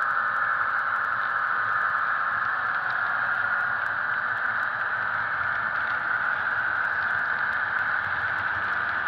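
HO-scale model diesel locomotive's Soundtraxx Tsunami sound decoder playing a running diesel engine through its small speaker, steady and unchanging, mixed with the rattle of the model train rolling on the track.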